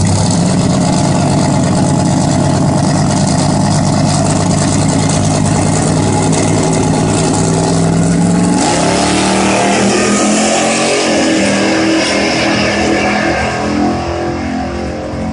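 Car engine running steadily, then revving up about eight and a half seconds in, its pitch rising and staying unsteady after that.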